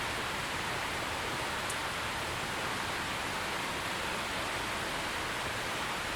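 Steady rain falling, an even hiss without pause. A single brief high tick about two seconds in.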